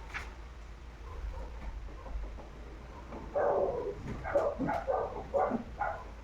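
A dog barking, a quick run of short barks starting about halfway in, over a faint low hum.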